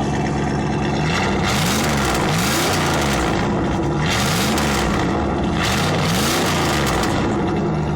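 Straight-piped 5.2 V8 of a Jeep Grand Cherokee ZJ idling, then revved up and let fall back several times in a row, the exhaust getting harsh and raspy at each peak, before settling back to idle near the end.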